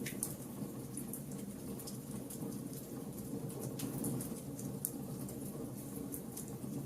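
Wood fire burning: a steady low rush of flames with scattered sharp crackles and pops from the burning wood, a few of them louder.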